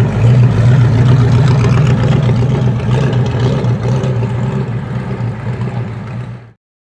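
A car engine running close by with a steady low hum. It cuts off suddenly near the end.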